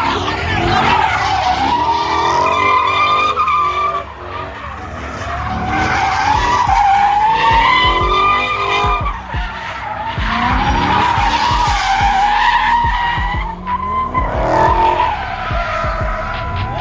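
Car tyres squealing long and loud as a car spins its wheels, the pitch wavering up and down, easing off briefly a few times and picking up again.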